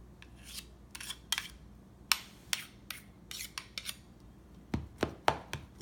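Irregular scrapes and sharp clicks of kitchen utensils against dishware, a scattered series of short handling sounds.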